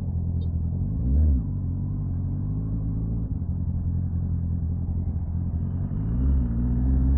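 Honda CB650R's inline-four engine running through an aftermarket slip-on exhaust while riding at steady speed, with a brief rev about a second in and the note climbing as it accelerates near the end.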